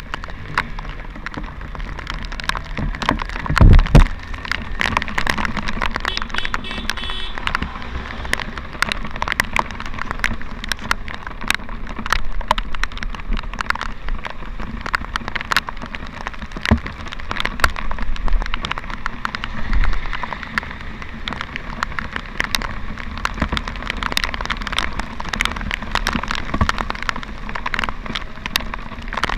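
Rain striking the camera in many sharp taps while riding a motorcycle through rain, over a steady low rumble of engine and road noise. A loud low thump about four seconds in.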